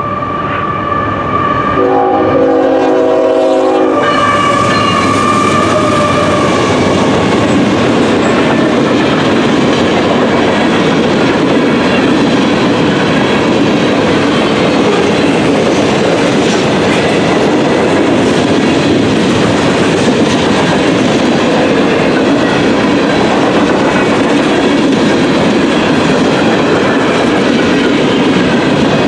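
Freight train at a grade crossing: the locomotive horn sounds one chord of several tones for about two seconds, starting about two seconds in. After that comes the steady, loud noise of container cars rolling fast over the crossing, wheels on rail.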